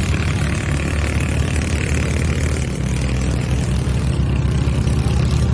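Off-road vehicle engine running steadily at an even speed, with road and tyre noise.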